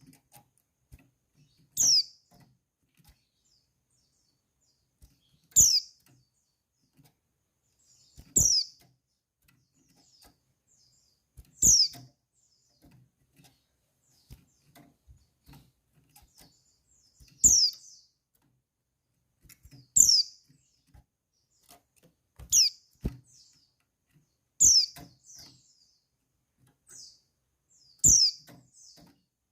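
Female white-eye (pleci) giving single short, high call notes that sweep quickly downward, one every few seconds, about nine in all. This is the female's call that draws male white-eyes to answer and sing.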